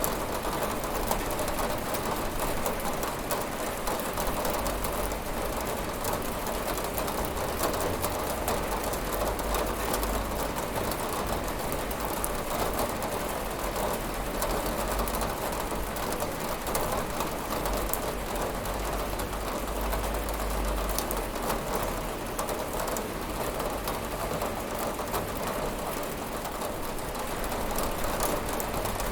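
Steady rain falling on a window: an even hiss of many small drop ticks, with a low rumble underneath.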